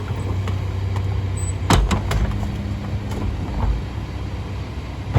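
Split-body garbage truck engine running steadily, with a loud metallic clank or two a little under two seconds in.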